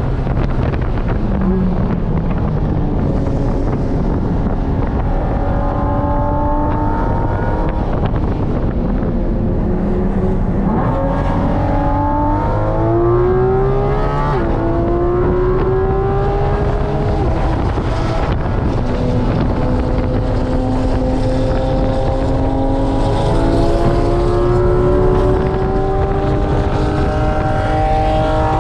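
Porsche 718 Cayman GT4 RS's naturally aspirated 4.0-litre flat-six, heard from inside the cabin while being driven hard on track. Its pitch climbs steadily under acceleration, drops suddenly around ten and fourteen seconds in, then climbs again for a long stretch near the end.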